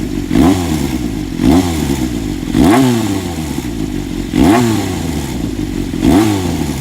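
Honda CBX400F air-cooled inline-four, breathing through a pre-regulation RPM exhaust, idling with five short throttle blips that rise and fall back about every one to two seconds. Among the engine note is an abnormal mechanical noise that the owner has found, which the uploader's tags link to the cam chain tensioner.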